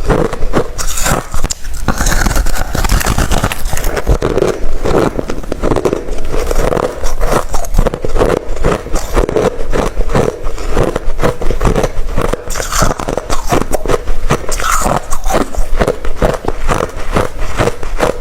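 Close-up chewing of hard refrozen crushed ice, a quick run of loud crunches and cracks that goes on steadily throughout.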